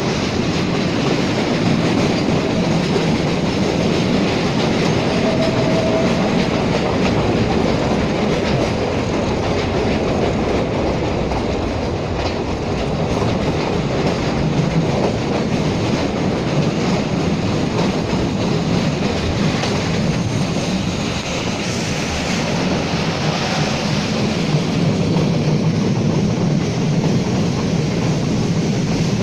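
Metre-gauge train running along the track: a steady rumble with wheels clattering over the rail joints.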